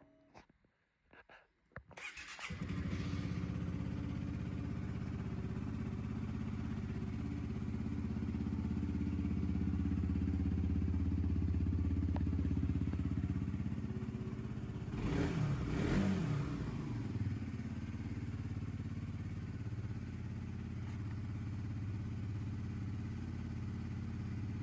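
Suzuki GSX-S125's single-cylinder engine starting after a couple of short clicks, then idling steadily. About fifteen seconds in it is revved up and down a couple of times, then settles back to idle.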